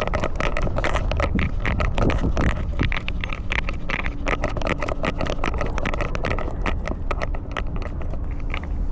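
Handling noise of a camera worn on a walking cat's collar: a steady low rumble under dense, irregular scratching and crackling clicks as the camera rubs and jostles.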